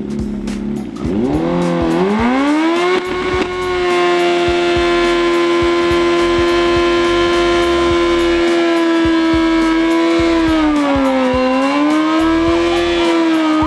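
Motorcycle burnout: the engine revs up over the first few seconds, then is held at a steady high pitch with the rear tyre spinning against the ground. The pitch dips briefly about three-quarters through and climbs back.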